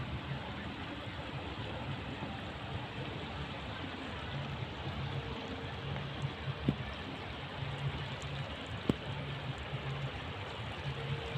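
Steady rushing of flowing water, like a stream, with a faint low hum that comes and goes and two sharp clicks in the second half.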